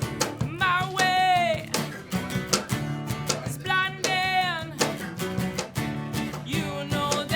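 A live band playing: guitar strummed over a steady beat, with a held, wavering melody line that comes in twice, about a second in and again about four seconds in.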